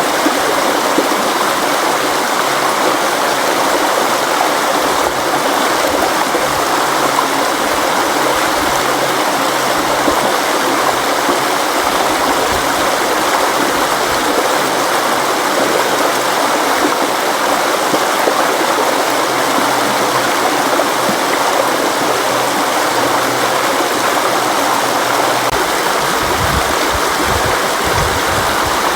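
River water flowing in a steady, continuous rush. A deeper rumble joins near the end.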